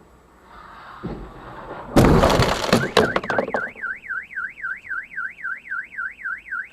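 A vehicle crash: a loud, sudden impact about two seconds in, followed by a car alarm warbling up and down about four times a second.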